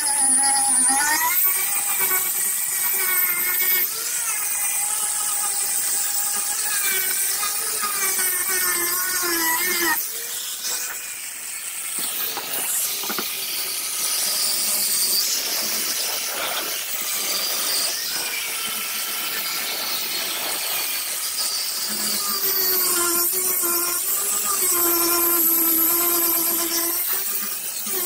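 Power grinder running on fiberglass, its motor whine wavering in pitch as it works. About ten seconds in the whine gives way to a rougher grinding noise, and it returns near the end.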